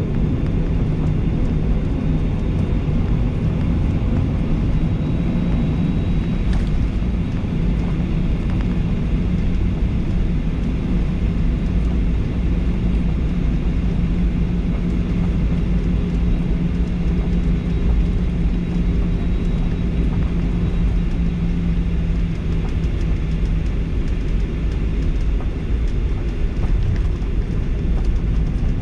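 Steady cabin noise inside a Boeing 737-800, its CFM56-7B engines running, heard from a window seat: an even rumble and hiss under a low hum that fades away about three-quarters of the way through.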